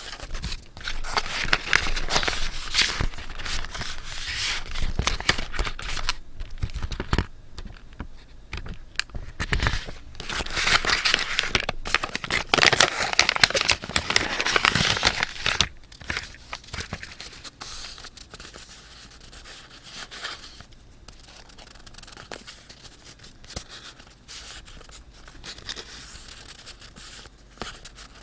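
Paper being handled close up: sheets rustling, crinkling and tearing in two loud stretches, the second ending about halfway through, followed by softer scattered rustles and light taps.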